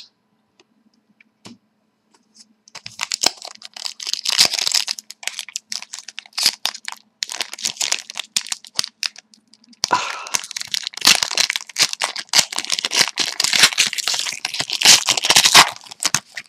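Hockey card pack wrappers being torn open and crinkled in the hands, in two long stretches of crackling and tearing after a brief silence.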